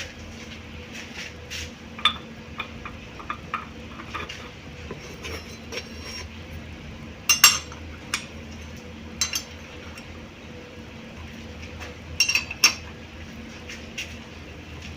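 Metal tools clinking and knocking as a thread chaser is fitted into a lathe's tool holder: scattered light clinks, with louder ones about seven seconds in, around nine seconds and near twelve seconds. A steady low hum runs underneath.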